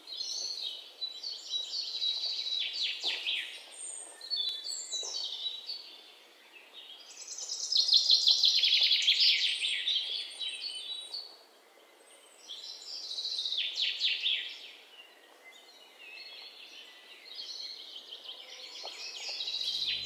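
Birds singing: phrases of high, quickly repeated notes a few seconds long, separated by short pauses.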